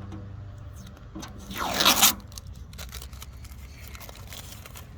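Tape being peeled off a painted lawn tractor part: one short, loud ripping tear about one and a half seconds in, with a few small clicks around it.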